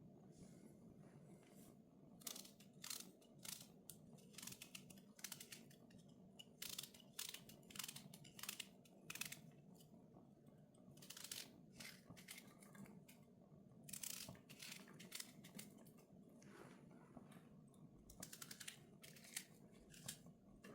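Faint, irregular runs of short crisp scraping or snipping strokes, in quick clusters, over a low steady hum.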